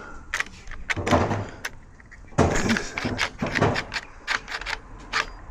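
A run of clicks and clunks from a UPVC door's multipoint lock mechanism being worked, with the loudest knocks about a second in and again about two and a half seconds in.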